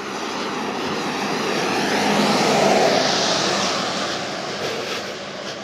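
A passing vehicle: its noise swells to a peak about halfway through and then fades away.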